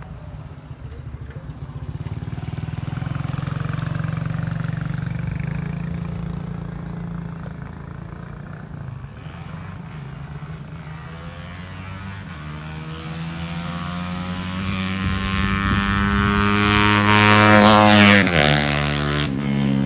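Honda C70 motorcycle with a 180cc engine running. Its pitch climbs steadily through the second half to a loud peak, then drops sharply and carries on lower.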